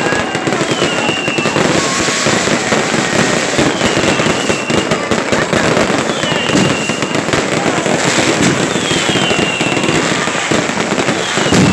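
Dense barrage of consumer fireworks: continuous crackling and popping of firecrackers, rockets and fountains, with short whistles that drop in pitch several times.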